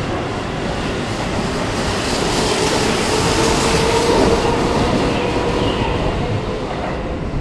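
Keihan 8000 series electric train accelerating out of the station and running past, with wheel and rail noise and a faint rising motor whine. It is loudest about four seconds in, then eases as the last car clears the platform.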